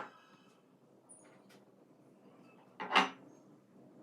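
Small objects handled on a tabletop during paint mixing: a few light clicks, then one loud, short double knock about three seconds in.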